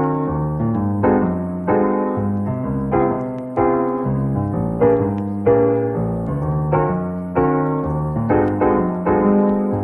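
Background piano music: slow chords struck about once or twice a second, each fading before the next.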